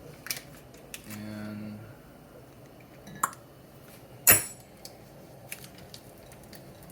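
Kitchenware clinking and knocking while cooking is set up: a few separate sharp clicks of utensils and dishes, with one louder knock about four seconds in.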